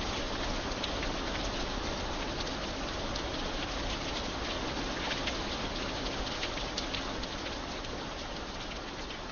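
Steady light rain falling, with sharp individual drops ticking now and then.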